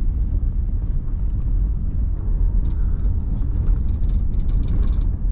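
Steady low rumble of a vehicle driving slowly while towing a trailer, heard from inside the cab, with faint light ticks in the second half.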